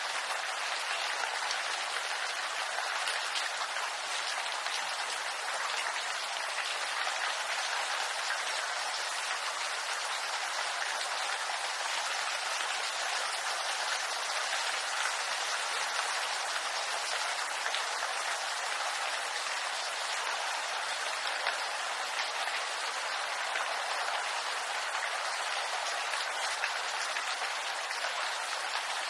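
Steady rain falling through a bamboo grove, dense drops pattering on leaves, even and unbroken.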